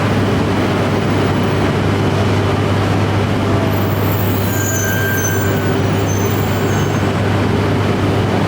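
Shinkansen train standing at the platform, its equipment giving a steady hum with a constant low drone, and faint high-pitched whines about halfway through.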